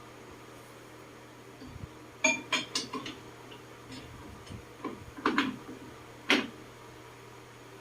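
Metal parts and tools clinking and clanking as they are handled: a quick run of clinks about two seconds in, a few more around five seconds, and a single louder clank a little after six seconds, over a faint steady low hum.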